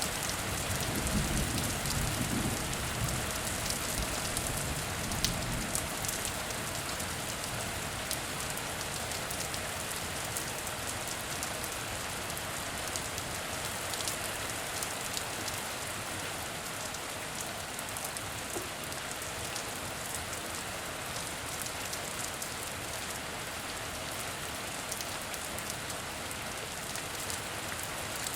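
Heavy rain falling steadily, with many separate drop hits through a dense even wash. There is a low rumble in the first few seconds.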